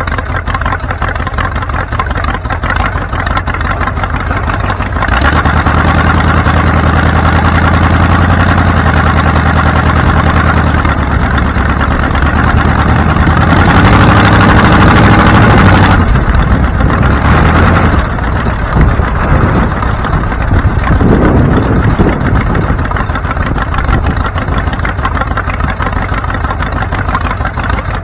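Car engine running with road noise while driving. The engine gets louder and steadier for several seconds twice in the first half, as if pulling under throttle.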